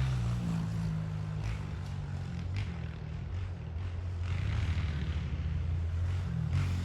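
Honda CRF125 pit bike's single-cylinder four-stroke engine idling steadily.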